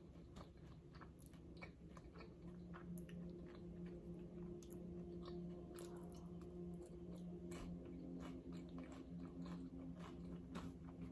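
Close-miked chewing of loaded nachos: crunching tortilla chips and small wet mouth clicks, over a steady low hum.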